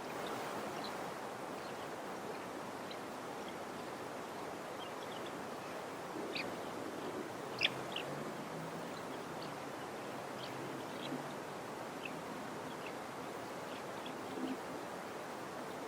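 Small birds chirping here and there, in short high calls, the clearest a little past the middle, over a steady hiss of white noise.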